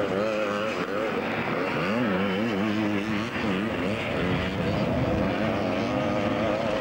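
Several vintage motocross bikes racing, their engines revving up and down as riders work the throttle, the notes overlapping and rising and falling.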